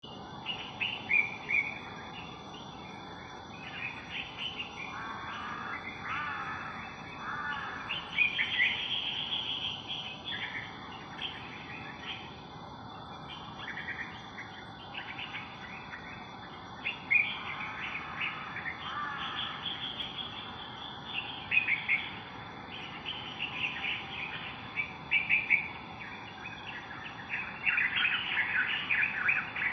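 Small birds chirping and singing in rapid strings of short, high calls and trills throughout, over a steady high-pitched hum.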